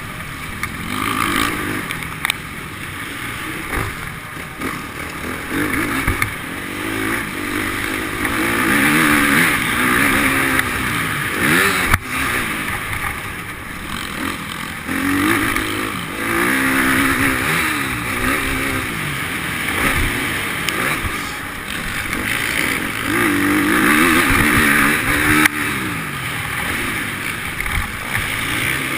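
Motocross bike engines revving up and down, the pitch rising and falling over and over as the bikes ride.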